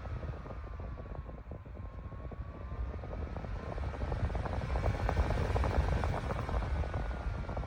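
Portable clip-on battery fan running, its motor whine slowly sinking, rising and sinking again as the speed swells and drops, over a steady low rush of moving air.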